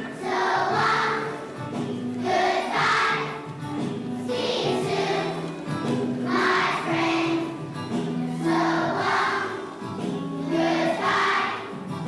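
Children's choir singing a song with instrumental accompaniment, in phrases that rise and fall about every two seconds.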